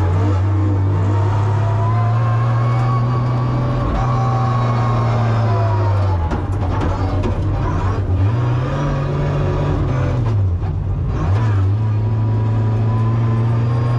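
Toyota Supra MK4's turbocharged 2JZ-GTE straight-six running hard while drifting, heard from inside the cabin, its note rising and falling and dipping briefly a few times as the driver lifts and comes back on the throttle.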